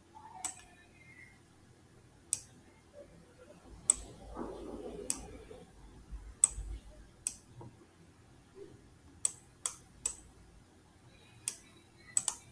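Computer mouse clicking: about a dozen sharp single clicks at irregular intervals, a few in quick succession near the end.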